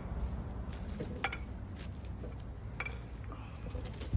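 Light metallic clinks and knocks, a handful at irregular intervals, as metal parts of a yard display are handled and taken apart, over a steady low rumble.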